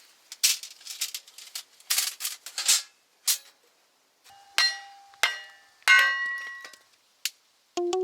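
Metal fire-pit plates clattering and clinking as they are handled: a quick run of sharp knocks in the first three seconds, then a few single strikes that ring out briefly with a bright metallic tone.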